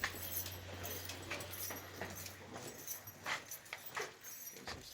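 Light metallic jingling and scattered small clicks from someone walking along a dirt trail, with a low steady hum that fades out about three seconds in.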